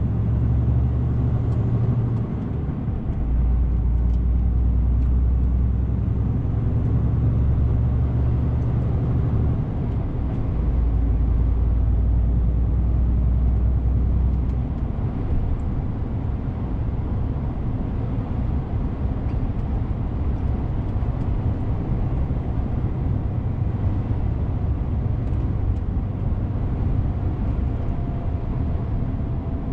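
DAF CF 450 truck's diesel engine running while driving, a steady low drone with road noise. The drone steps in pitch and level a few times in the first half and turns rougher and more even in the second half.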